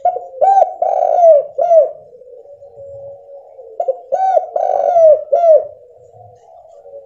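Spotted dove (tekukur) cooing: two phrases of several rounded coos each, a couple of seconds apart, with a fainter steady coo between them.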